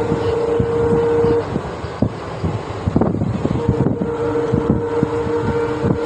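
Passenger express train running at speed, heard from its open door: a rushing wind and running noise, with the wheels knocking irregularly over rail joints. A steady low tone is heard until about a second and a half in, and again from about three and a half seconds in.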